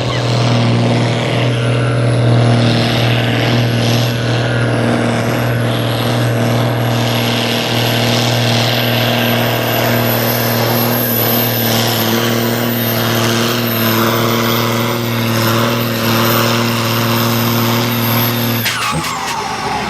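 Ursus tractor's diesel engine running hard at a steady high speed during a pull, with a faint high whine above the engine note. The engine sound cuts off suddenly near the end.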